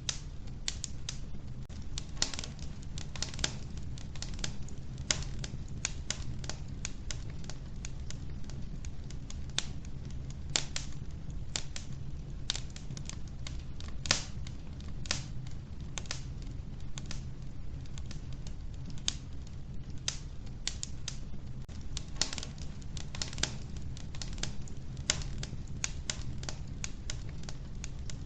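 Wood fire burning in a wood-burning stove: irregular sharp crackles and pops from the burning logs over a steady low rumble of the flames.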